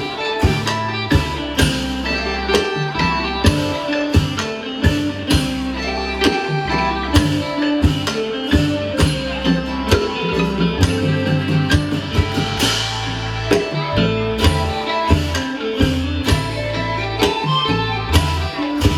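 Isan pong lang ensemble playing lively folk music: plucked strings and melodic instruments over drums and percussion keeping a steady beat.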